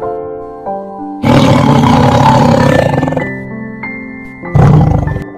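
A tiger roaring twice: a long roar about a second in, lasting about two seconds, then a shorter one near the end, over background music.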